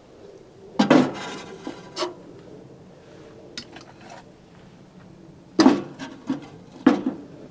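Knocks and clatter of camp gear being handled and set down: two clunks about a second in, another a second later, then three more near the end.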